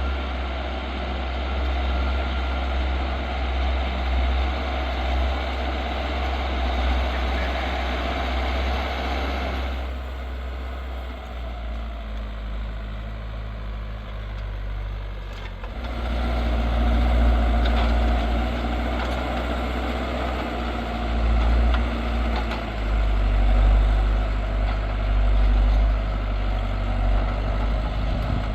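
New Holland TL100 tractor's diesel engine running steadily while pulling a plough through hard, compacted ground. The engine note eases about ten seconds in, then comes back louder with a deeper note around sixteen seconds.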